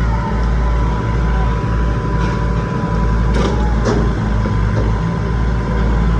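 Tractor engine running steadily with a low rumble, with two short knocks a half second apart about three and a half seconds in.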